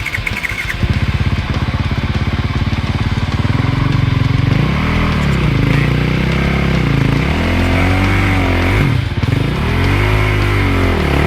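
Dirt bike engine running under hard throttle, its revs rising and falling over and over, with a brief drop about nine seconds in.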